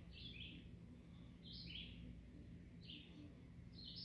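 A bird calling faintly: a short two-part call, the second part lower, repeated four times at about one-and-a-half-second intervals, over a low steady hum.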